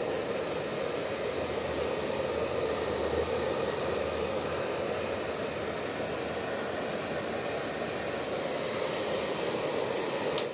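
Handheld hair dryer running steadily: a rush of blown air with a faint high motor whine. It is switched off right at the end and the sound cuts off sharply.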